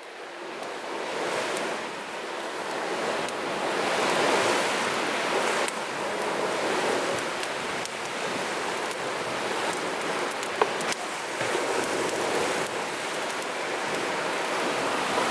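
Sea waves washing onto the shore: a steady surf hiss that swells and eases, with one sharp tick about ten seconds in.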